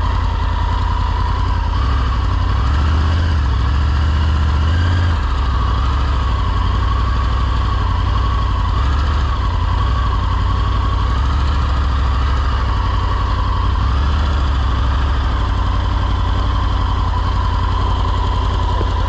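Motorcycle engine running steadily, its note rising slightly for a few seconds near the start and again about two-thirds of the way through.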